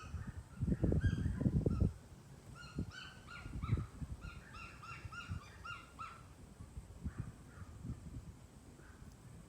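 Birds calling: a run of short, repeated, nasal calls, several overlapping and densest in the middle, then fading toward the end. Low thumps in the first two seconds.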